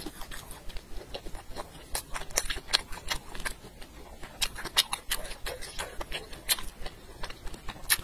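Close-miked chewing of a black-pepper grilled sausage: a run of irregular, sharp mouth clicks and wet smacks, several a second.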